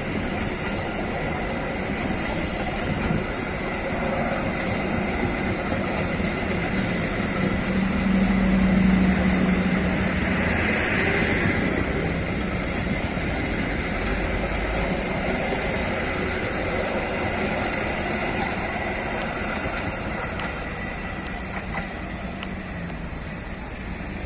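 Long-distance passenger train's coaches rolling past close by, a steady rumble of wheels on the rails. It is loudest about eight to nine seconds in, with a low hum, then slowly fades as the train moves away.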